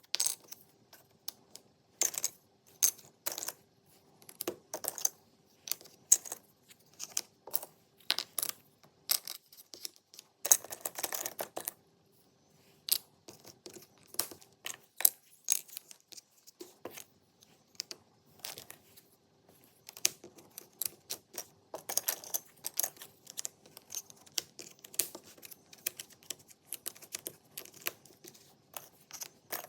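Jigsaw puzzle pieces being picked up, fitted and set down on a hard surface: irregular sharp clicks and taps, with a longer rattle of pieces shuffling together about ten seconds in, over a faint steady hum.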